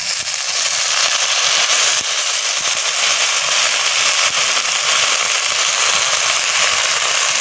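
Water poured into a hot wok of frying water spinach, oil, shallots, garlic and chili, setting off a loud, steady sizzling and crackling with the splash of the pour.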